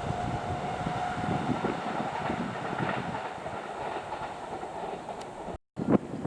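Kintetsu electric train running past on the rails, with steady wheel-and-rail noise and a faint held tone, slowly fading away. About five and a half seconds in, the sound cuts out briefly and then gives way to wind buffeting the microphone.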